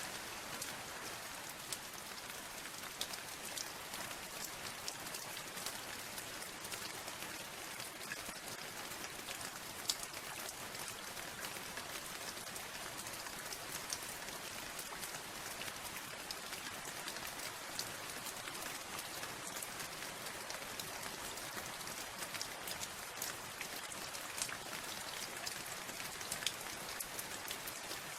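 Steady rain with individual drops pattering on a hard surface, many sharp ticks scattered through an even hiss.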